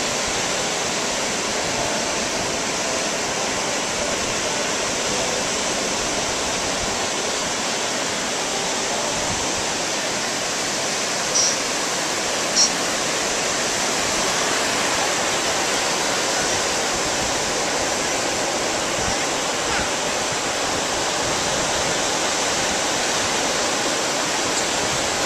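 Steady, even rush of wind and ocean surf on a beach. Two short high-pitched ticks come about halfway through.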